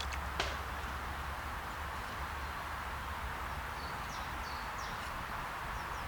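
Outdoor ambience: a steady rushing background noise with a low rumble, a click just after the start, and a few faint, short, high bird chirps about four seconds in and again near the end.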